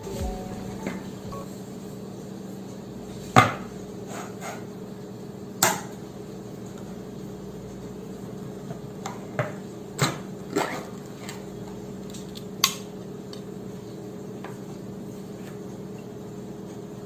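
Kitchen dishes and utensils knocking and clinking: about seven separate sharp knocks, the loudest about three and a half seconds in, over a steady low hum.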